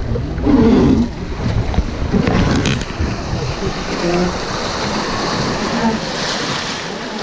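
River water rushing around a boat, with wind buffeting the microphone and brief, indistinct voices now and then.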